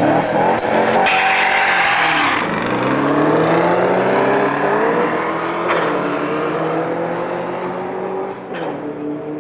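Chevrolet C2 Corvette Sting Ray's V8 at full throttle on a drag-strip launch. The engine note climbs and drops back at each upshift and fades slightly as the car pulls away down the strip.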